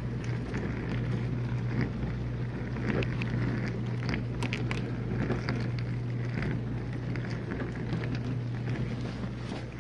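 Whirlpool dishwasher running mid-cycle: a steady low pump-motor hum under the constant hiss and patter of water spraying inside the tub.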